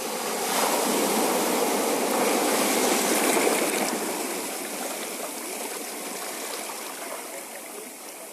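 Sea waves washing over a rocky shore: a hiss of churning water that swells about half a second in, is loudest around three seconds, then slowly drains away.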